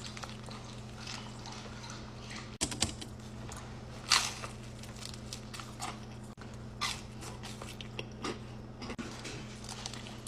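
A person biting and chewing crunchy food, with irregular crunches every second or so, the loudest about four seconds in, over a steady low hum.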